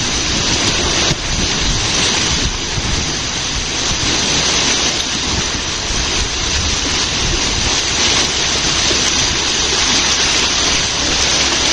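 Steady rushing and churning of water from a whirlpool in a canal lock chamber as its water level equalises, mixed with wind buffeting the microphone.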